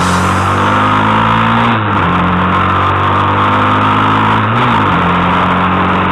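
Motorcycle engine accelerating through the gears: its pitch climbs steadily and drops sharply at each upshift, about two and four and a half seconds in.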